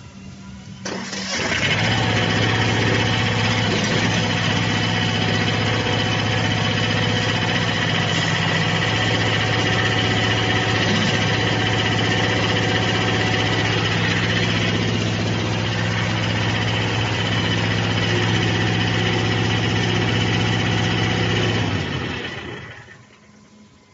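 Skid steer loader engine starting about a second in and then running steadily, before dying away near the end.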